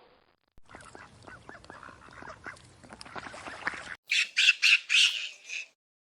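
Bird calls: a quiet run of short, rapid calls, then about six loud, harsh squawks in quick succession.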